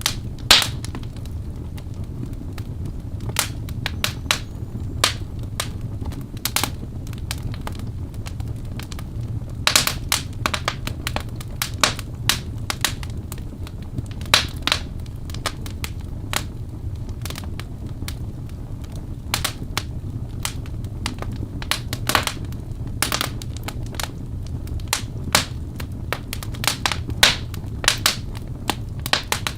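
Birch logs burning in a fireplace: irregular sharp crackles and pops over a steady low rumble of the fire.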